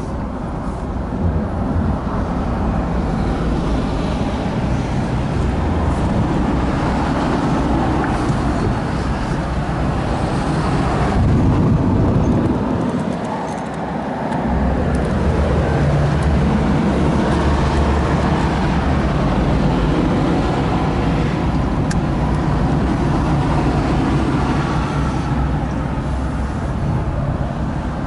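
Mazda RX-8's rotary engine running through an aftermarket muffler as the car drives, a steady low exhaust drone that briefly drops away about halfway through before picking up again.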